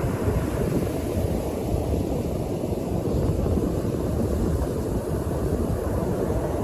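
North Sea surf, with wind buffeting the microphone into a steady low rumble.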